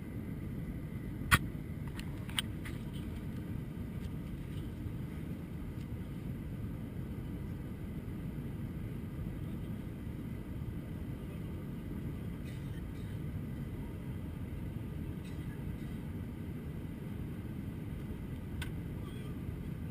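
Steady low rumble of cabin noise aboard an Airbus A321 airliner. A sharp click comes about a second in, a fainter one a second later, and another near the end.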